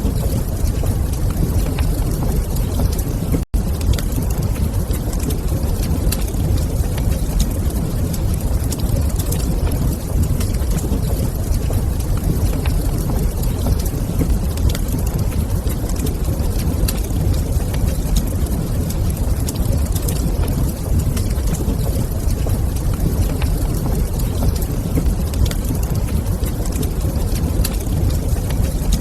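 Wood fire in a fireplace crackling with scattered small pops over a steady, deep rumbling roar. The sound cuts out completely for an instant about three and a half seconds in.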